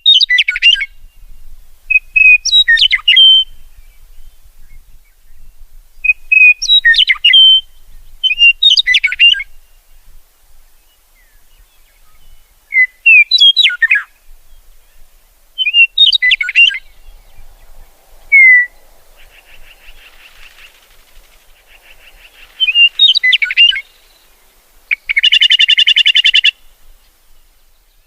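A songbird singing short, loud chirping phrases every two seconds or so. Near the end comes one longer, harsh buzzing call.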